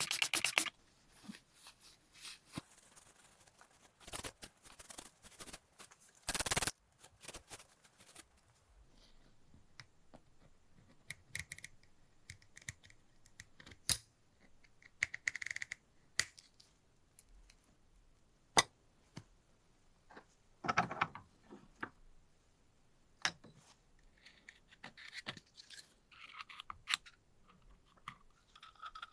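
Small metal parts and tools being handled on a bicycle. A fast run of even ticks stops about half a second in, then come scattered clicks and taps, a short scrape about six seconds in and a duller knock later on.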